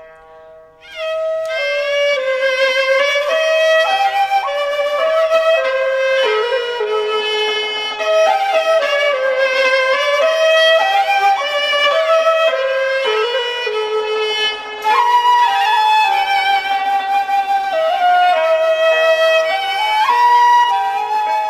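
Xiao, the Chinese end-blown bamboo flute, playing a flowing, ornamented melody with sliding notes, over bowed-string accompaniment. The music resumes after a brief lull about a second in.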